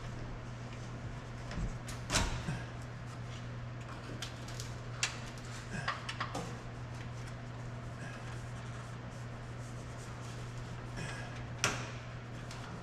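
Scattered clicks and knocks of a sheet-metal body panel and hand tools being handled, a few at a time, over a steady low hum.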